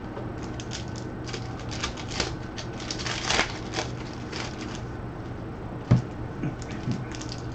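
Trading cards and their packaging being handled: irregular light clicks and rustles, with one dull knock about six seconds in, over a steady low hum.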